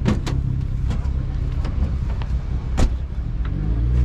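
A car engine running steadily, with a few sharp clicks and knocks. Near the end the engine note bends in pitch and grows louder.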